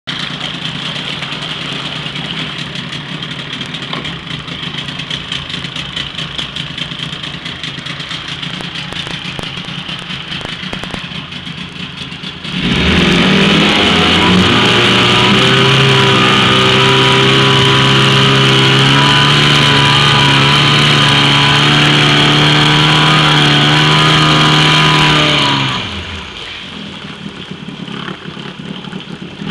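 Yamaha-built 28 hp Mariner outboard motor running in a test tank. It runs steadily at low speed, is throttled up about twelve seconds in with a rising pitch, holds a steady high-speed run for about twelve seconds, then is throttled back down near the end.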